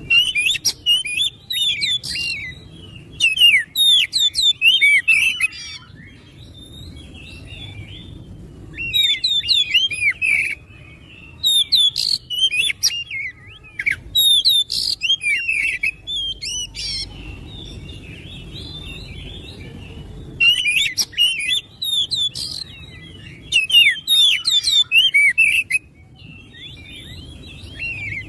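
Oriental magpie-robin singing loud phrases of rapid, varied whistles and chattering notes. Each phrase lasts a second or two, with short pauses between them.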